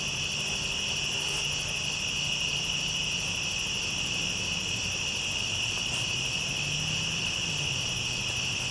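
A dense, steady night chorus of crickets chirping. Under it runs a low, steady machine hum that shifts slightly in pitch near the end.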